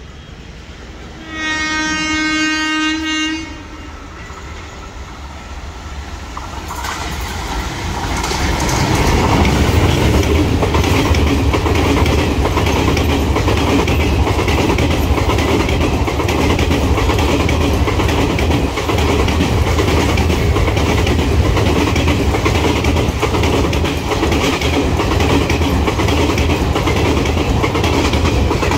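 Jan Shatabdi express train passing through a station at speed. Its locomotive horn sounds one long blast about a second in, then the train's rumble grows as it approaches and runs on with a steady fast clatter of wheels over the rail joints.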